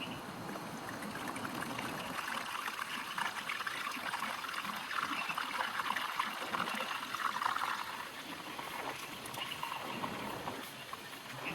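Rainwater trickling and splashing during heavy rain. It swells for several seconds mid-way, then eases near the end.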